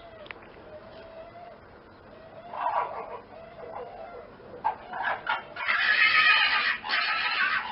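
An animal calling: a short call about two and a half seconds in, then louder, drawn-out high calls from about six seconds in.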